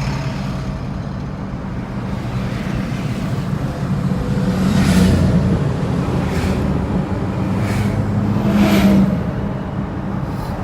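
Vehicle driving: steady engine and road noise, with a few louder swooshes, the loudest about 5 and 9 seconds in.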